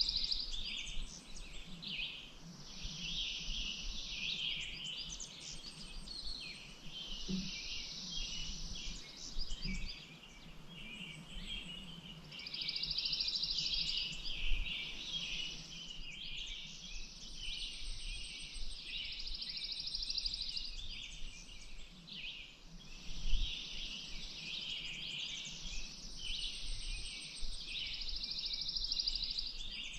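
Songbirds chirping and calling throughout, with high, buzzing trills of two to three seconds repeating every few seconds.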